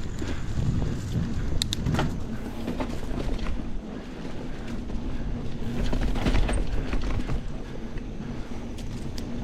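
Mountain bike being ridden along a dirt trail: wind rumbling on the microphone over the hiss of tyres, with scattered sharp clicks and rattles from the bike over roots and bumps.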